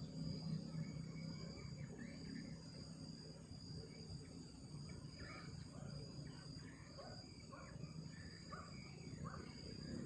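Night insects, crickets among them, chirring steadily in a high-pitched drone, over a low rumbling noise.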